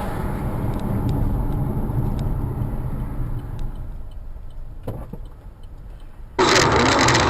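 Car engine and road rumble, as recorded by a dashcam, fading out after about four seconds with a faint knock near five seconds. It then cuts abruptly to louder road and engine noise near the end.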